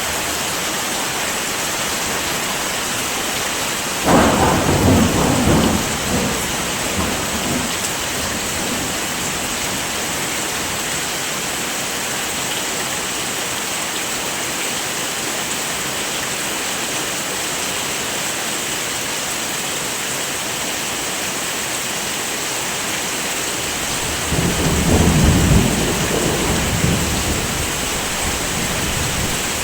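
Steady heavy rain with two rolls of thunder: a sudden clap about four seconds in that rumbles away over a few seconds, and a second rumble that swells and fades near the end.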